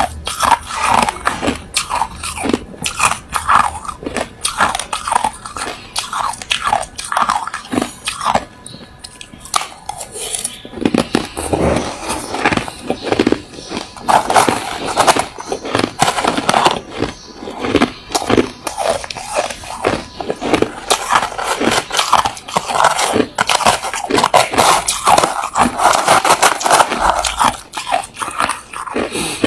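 Person biting and chewing hard refrozen crushed ice close to the microphone: rapid, loud, sharp crunches, one after another, easing off briefly about a third of the way through.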